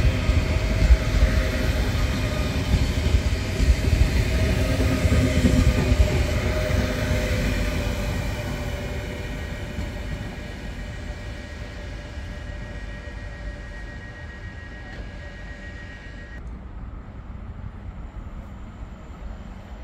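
Frecciarossa 1000 high-speed electric train passing through the station without stopping: a loud rumble of wheels on the rails with a steady whine over it. The sound fades away over the second half as the train recedes.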